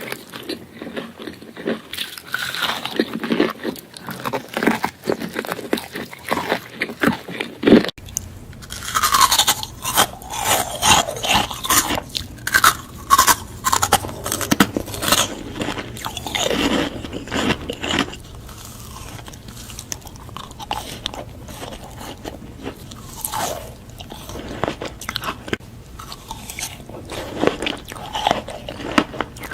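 Close-miked eating sounds of Korean food: crunchy bites and chewing, one after another. About eight seconds in the background changes and the chewing turns smeared and less sharp, with crisp bites coming back later.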